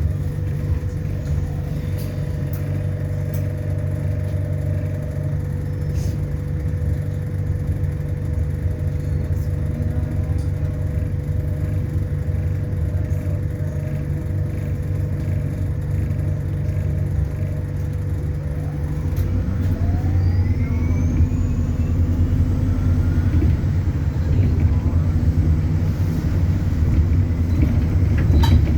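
ADL Enviro400 Hybrid bus running with a steady low drone, heard from inside. About two-thirds of the way through, the diesel engine picks up and a turbo whistle rises sharply in pitch over a few seconds, and the sound grows a little louder.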